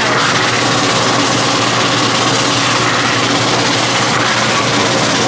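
Car-wash floor-mat cleaning machine running with a steady motor hum and a loud, even hiss.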